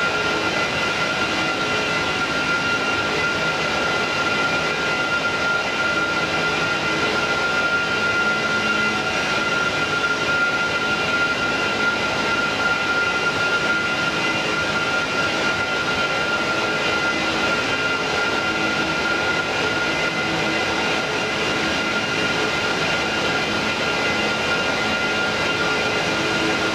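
Jet airliner engines running steadily, a constant rushing noise with a high, steady whine.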